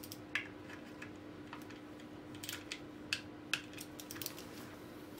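Small torque wrench ratcheting as bolts are tightened in stages: a series of sharp, irregularly spaced clicks, over a faint steady hum.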